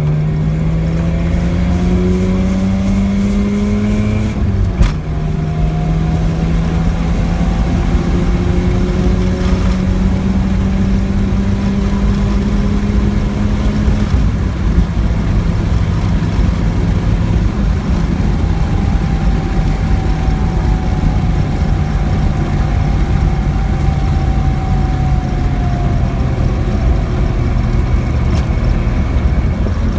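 Mazda RX-7 FC3S's twin-rotor turbo rotary engine pulling a car away from a standstill: revs climb for about four seconds, drop with a click at a gear change, then climb more slowly before settling into steadier running. A thin whining tone comes in over the middle part and falls slightly; the car is making an abnormal noise whose cause the owner does not know.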